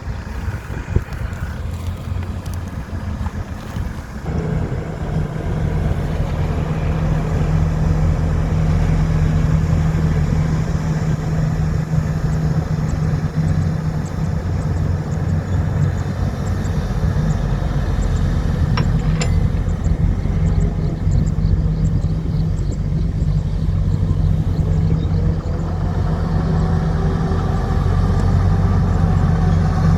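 Heavy earthmoving machinery's diesel engine running steadily with a deep, even hum, growing louder about four seconds in.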